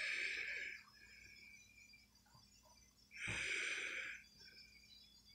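Two breaths, exhaled heavily through the nose close to the microphone, about three seconds apart.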